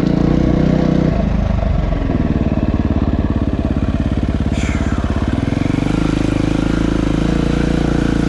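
Dirt bike engine running while riding, its note easing off about a second in and building again after about five seconds. A short falling whistle is heard about halfway through.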